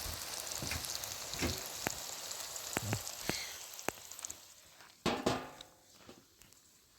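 Food frying in hot oil in a pan, a steady sizzle with scattered pops that dies away over the second half. A louder knock with a brief ring comes about five seconds in.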